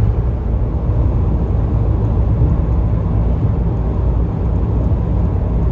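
Steady low rumble of a car cruising at motorway speed: road and engine noise.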